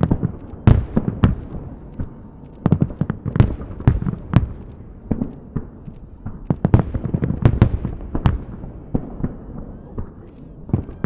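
Fireworks salute: an irregular run of sharp bangs and booms with a low rumble between them.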